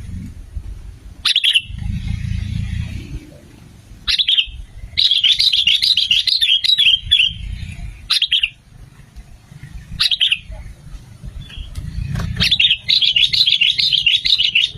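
Sooty-headed bulbul calling: short sharp calls every few seconds, and two bursts of rapid chattering song, one about five seconds in and one near the end. A low rumble sits under the calls.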